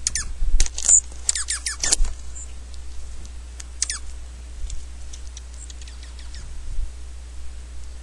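Small birds chirping: a quick run of high, down-slurred chirps in the first two seconds, a couple more about four seconds in, then fainter scattered ones, over a steady low rumble.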